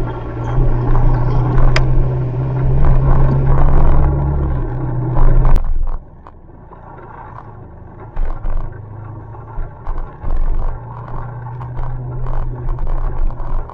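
Motorbike engine running, with road noise. It is loud and steady, then drops suddenly to a quieter hum about six seconds in, with short intermittent bursts of noise after that.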